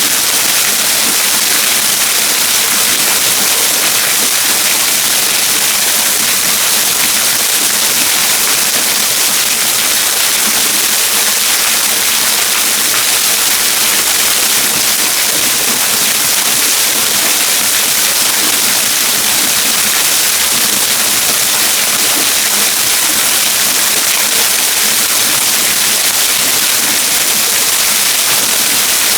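Waterfall rushing: a loud, steady hiss of falling water, strongest in the high pitches and unchanging throughout.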